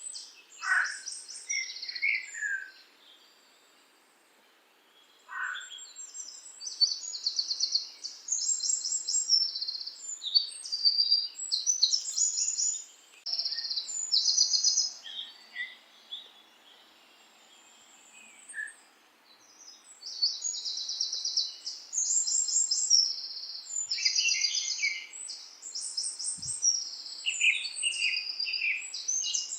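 Birdsong: bursts of high, rapid trilled phrases from several birds, with a few lower falling whistles, broken by short quiet pauses.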